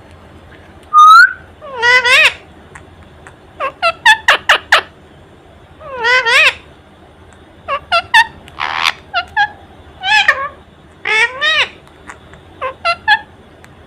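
Indian ringneck parrot calling: a run of short sharp chirps and longer calls that waver and arch in pitch, with a loud brief whistle about a second in and a short raspy hiss about nine seconds in.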